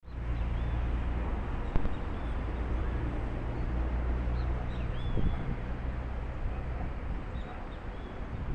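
Small birds chirping briefly every second or so over a steady low rumble of outdoor background noise.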